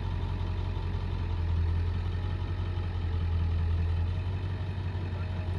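Box truck engine idling steadily as the truck creeps forward at low speed, a steady low drone.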